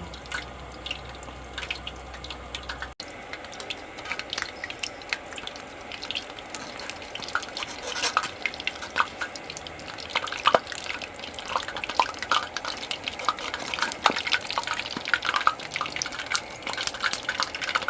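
Flattened biscuit dough frying in hot oil in a pan, sizzling with a constant crackle of sharp pops that gets busier about six seconds in.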